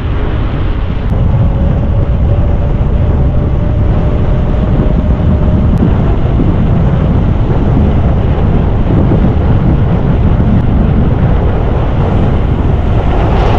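Steady wind rush on the microphone of a moving motorcycle, with the engine and road noise underneath and a faint steady whine for the first few seconds.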